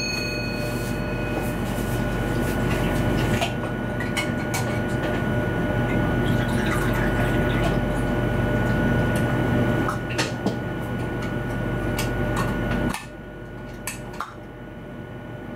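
Running noise inside an electric train's driver's cab: a steady rumble with a high whine held on one note and scattered clicks, dropping sharply in level about thirteen seconds in.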